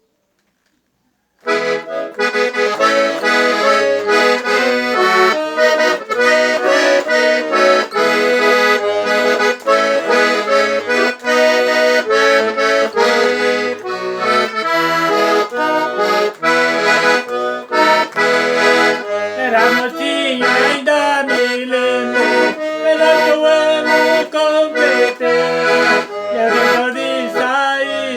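Accordion (sanfona) playing an instrumental intro to a traditional song, coming in about a second and a half in.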